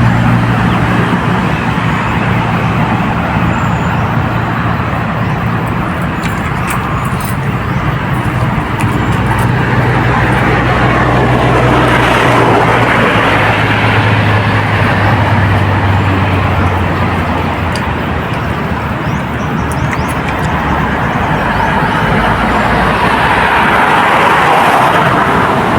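Steady road traffic noise with a low engine hum that dips in pitch about halfway through and then fades.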